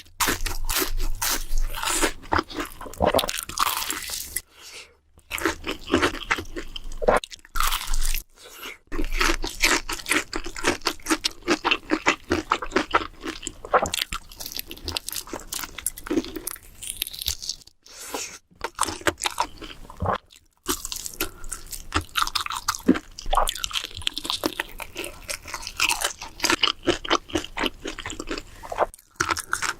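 Close-miked crunching and chewing of crisp food in a mukbang: rapid crackly bites and chews, broken by a few brief pauses.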